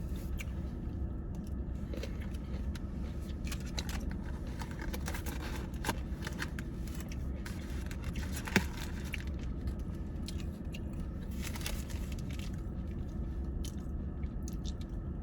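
A person chewing and eating a grilled chicken club sandwich close to the microphone, with small scattered mouth clicks and crinkles over a steady low hum. One sharp click stands out a little past halfway.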